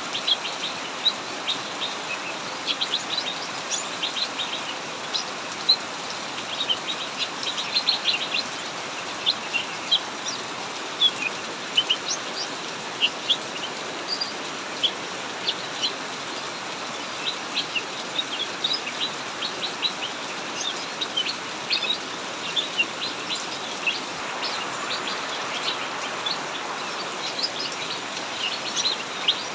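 Cucak mini songbirds chirping in rapid, continuous short notes over the steady hiss of heavy rain.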